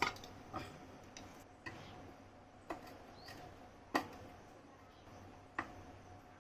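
Small, irregular clicks and knocks of an old table fan's parts being handled, about seven over several seconds, a few leaving a short metallic ring.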